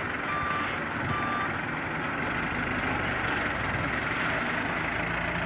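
Dump truck's reversing alarm beeping twice, then falling silent, over the steady running of heavy diesel truck engines.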